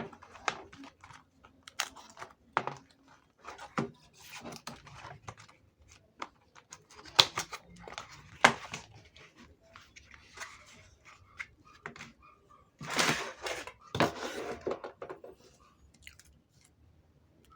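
Saw blade packaging being handled and opened by hand: irregular clicks, taps and crinkling, with longer rustling stretches about 13 and 14 seconds in.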